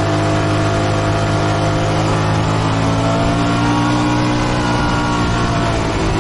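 Motorcycle engine running under way, mixed with road and wind noise. Its pitch climbs a little through the middle, then drops near the end as the throttle eases.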